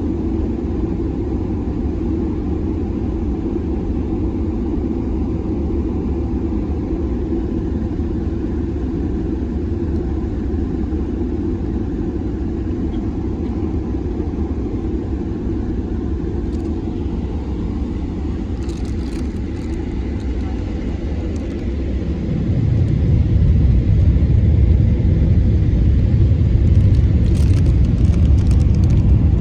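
Airbus A330-300 cabin noise during the landing: a steady low rumble of engines and airflow, which turns to a louder, deeper rumble about three quarters of the way through, with a few faint rattles near the end.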